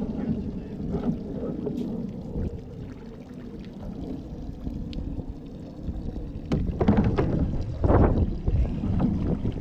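Low rumbling noise of wind and water around a small boat, with two louder rushes of noise about seven and eight seconds in.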